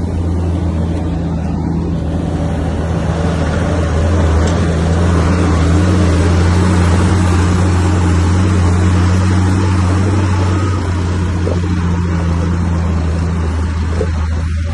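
Heavy earthmoving machine's diesel engine running with a steady low hum. It grows louder and rougher from about three seconds in and eases again near ten seconds.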